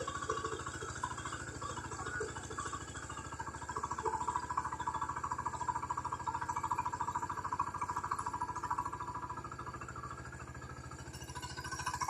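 Engine of a ploughing machine running steadily with a rapid, even firing beat. It dips slightly about ten seconds in, then grows louder near the end.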